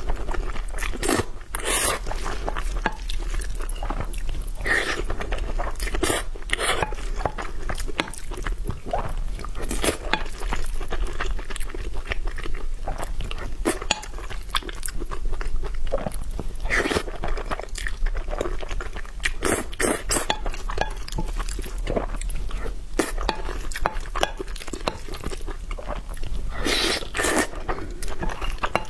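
Close-miked eating: a person biting and chewing crunchy food, with irregular crunches and wet mouth sounds throughout.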